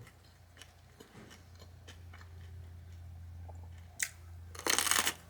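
Biting into a crunchy broiled eggplant parmesan sandwich close to the microphone: one crisp crunch about four seconds in, then a louder run of crunching near the end. Faint mouth clicks come before it, over a low steady hum.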